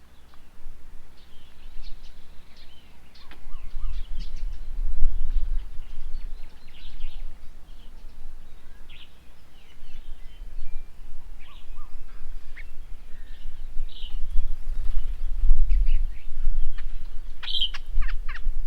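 Birds chirping and calling in short notes throughout, with a louder burst of chirps a little before the end. A low rumble runs underneath, swelling at times.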